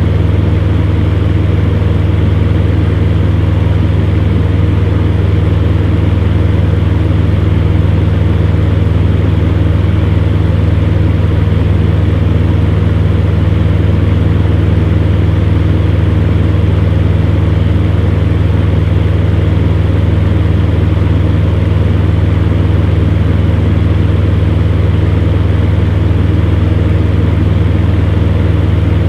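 Electric fan running steadily, a deep motor hum with a few steady tones over an even rush of air.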